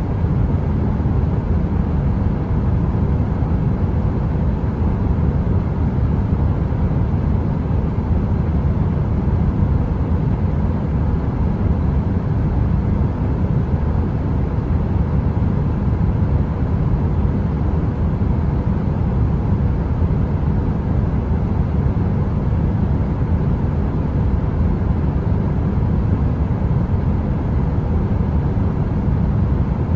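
Heater running: a steady, unbroken low rumble of air noise with a faint steady hum on top.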